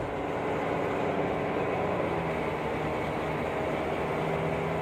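Ford V10 engine and tyre noise heard from inside the cab at freeway speed: a steady rush with an engine drone under it, the engine's tone shifting about two seconds in and again near the end.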